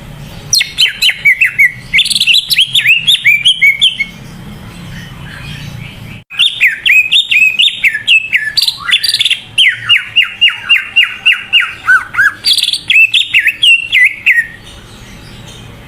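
Cucak ijo (green leafbird) singing in two long bouts of rapid, varied whistled notes, the second with a run of fast repeated notes near the middle. A faint low hum sits under it.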